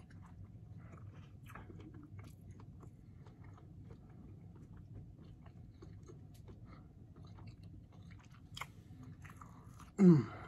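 A person chewing a bite of steak with the mouth closed: many soft, wet mouth clicks. Near the end comes a short, loud hum of the voice that falls in pitch.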